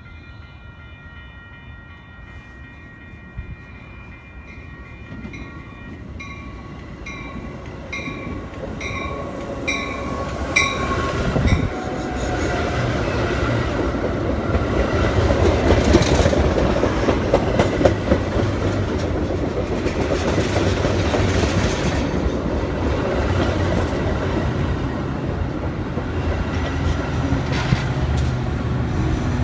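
A train on the line approaches and passes close by. Its wheels rumble and clatter over the rail joints, and the sound swells to a loud, steady rush about a third of the way in. Before that there is a faint ringing, which becomes a ding repeating about twice a second.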